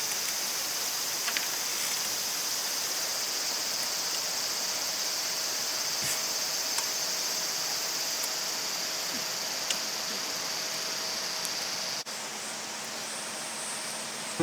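A steady, high-pitched chorus of insects chirring, with a few faint ticks scattered through it. About twelve seconds in, the sound changes abruptly to a higher, fainter insect drone.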